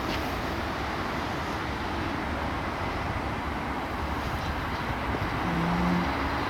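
DRS Class 37 diesel locomotive, its English Electric V12 engine running as the flask train comes through: a steady rumble that grows a little louder near the end, with a brief steady low tone about five and a half seconds in.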